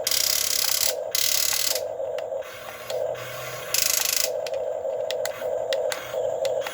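Electric motors and plastic gearboxes of a Huina 1550 RC excavator whirring in short stop-start bursts as its arm and bucket are worked, with several louder hissing bursts, the loudest near the start and about four seconds in, and scattered clicks.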